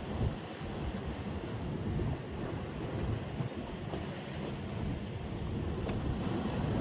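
Steady low rumble of wind on the microphone mixed with the wash of sea surf.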